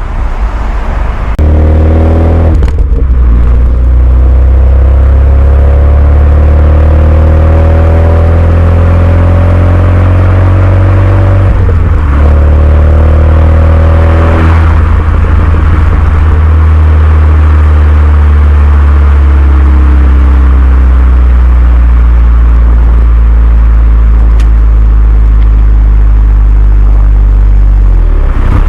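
Renault Mégane 2 RS's turbocharged 2.0-litre four-cylinder running through a Milltek cat-back exhaust. It pulls up through the gears, its pitch rising with breaks at two gear changes, then eases off to a steadier, slowly falling drone for the rest of the stretch.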